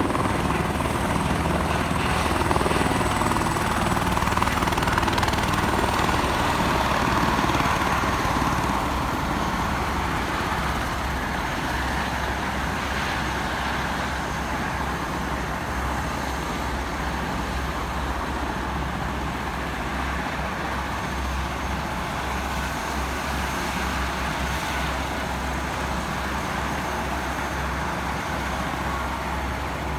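Helicopter rotor and engine running steadily during a rooftop landing, with a pulsing low beat from the blades. The sound eases slightly in level after several seconds.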